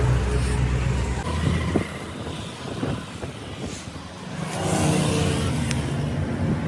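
Motor vehicle engines running: a loud, low engine sound breaks off abruptly about a second in, and an engine sound swells up again about four and a half seconds in.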